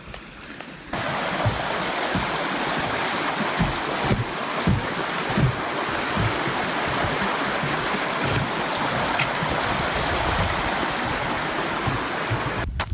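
Rushing stream water, a steady loud rush that starts abruptly about a second in and stops just before the end, with some low thuds under it.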